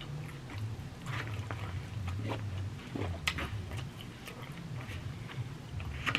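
A person chewing a mouthful of a steak and chicken rice bowl, with scattered small mouth clicks.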